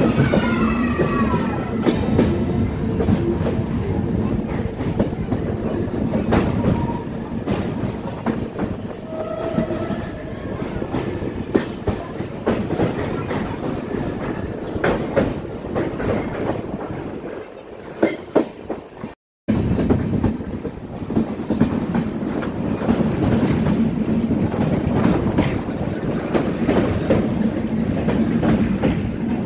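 Indian Railways train running on the rails: a steady rumble, with the wheels clacking over rail joints and a brief wheel squeal at the start. Just after halfway the sound dies down and cuts out for a moment, then the running picks up again.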